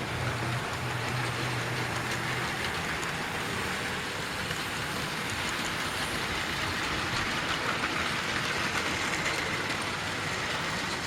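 00 gauge model train running on the layout track: a steady whir of motor and wheels on rail, with a low hum that stops about two and a half seconds in and a faint high motor whine that comes up later.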